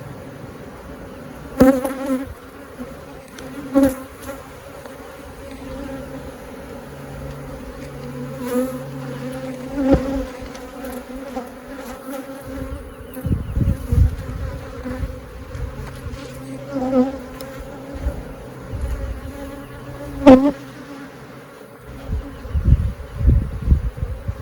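Honeybees buzzing in a steady hum around an opened, crowded hive, with single bees buzzing loudly past the microphone several times. A few low rumbles sit under the hum around the middle and near the end.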